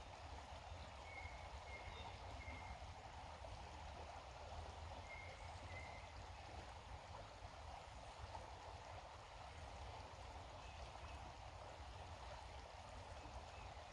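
Faint, steady rush of a creek's flowing water, with a few faint short high notes in the first half.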